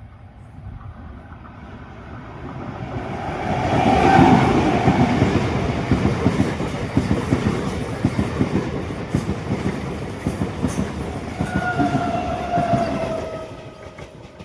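A train passing close by: wheels clattering over the rail joints in a fast, dense run of knocks. It builds up over the first few seconds and fades near the end. A ringing tone sounds as it gets loudest, and another tone, slowly falling in pitch, comes near the end.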